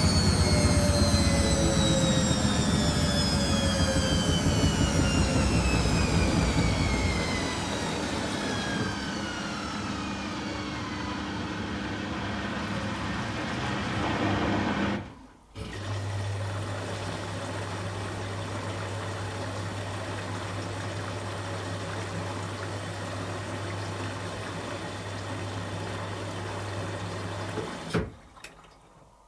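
Beko WTG620M1 washing machine's spin winding down, its motor whine falling steadily in pitch over about twelve seconds. After a brief pause a steady low hum runs for about twelve seconds and stops with a click near the end.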